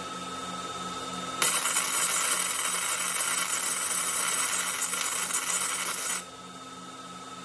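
Robotic CO2 arc welding: the arc strikes about one and a half seconds in, crackles and hisses steadily for about five seconds, then cuts off suddenly. A steady electrical hum runs underneath.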